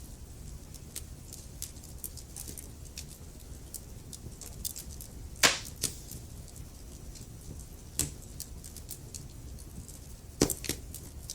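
Wood fire crackling in a fireplace: a steady low rumble of flames under frequent small crackles, with louder pops of burning wood about halfway through, about two-thirds through, and a double pop near the end.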